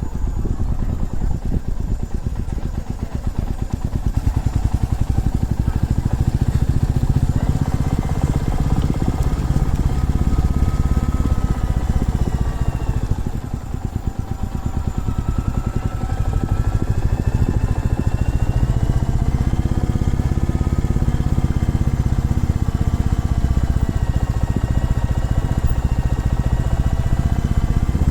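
Single-cylinder motorcycle engine running on the move, its pitch slowly rising and falling with speed over a steady low rumble. It eases off briefly about halfway through, then picks up again.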